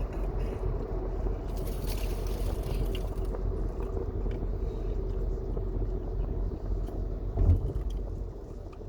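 Road and engine noise inside a moving car's cabin: a steady low rumble with a faint hum, and a short thump about seven and a half seconds in.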